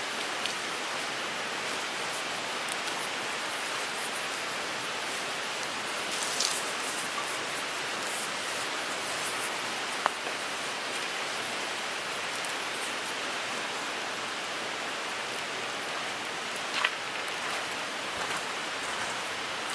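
Wood fire burning in a Picogrill 398 fire pit: a steady hiss with a few sharp crackles and pops now and then.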